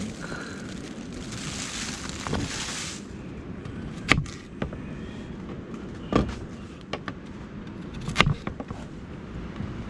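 Steady low wind rumble with several sharp knocks a second or two apart; a bright hiss stops abruptly about three seconds in.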